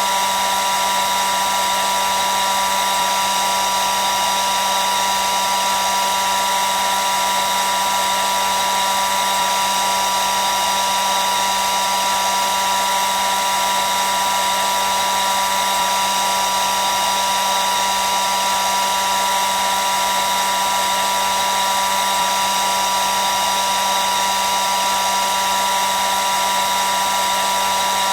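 Hair dryer running steadily: an even rushing of air with a constant motor whine, unchanging throughout.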